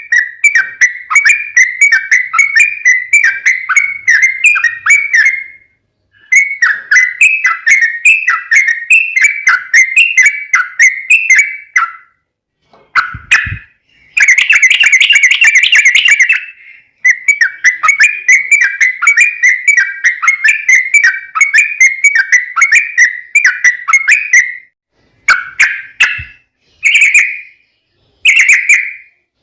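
Yellow-vented bulbul singing a long, rapid, bubbling song of chattering notes in runs of several seconds, with short pauses; the run after about halfway is denser. Near the end the song breaks into shorter phrases.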